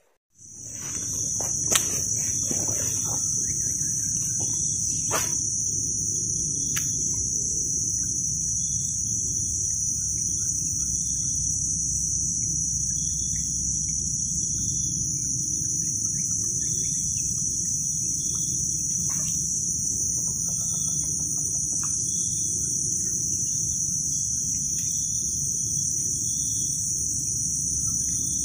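Steady, shrill drone of insects, a continuous high-pitched buzz that does not let up, over a low steady rumble of wind on the microphone.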